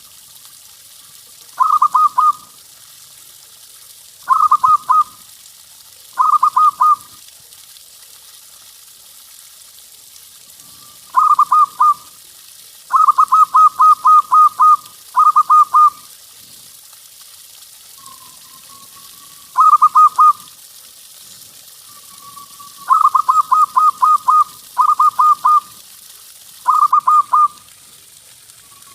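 Zebra dove (perkutut) cooing: about ten phrases of quick, pulsed notes near the same pitch, some short and some drawn out to seven or eight notes, a few opening with a soft gliding note.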